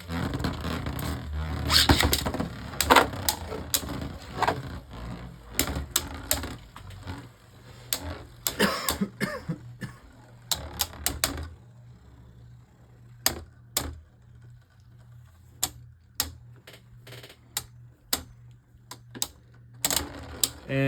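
Two Beyblade Burst tops spinning and colliding in a plastic stadium. Rapid clattering hits over roughly the first ten seconds thin out to occasional clicks as the battle winds down to a survivor finish, with one top outspinning the other.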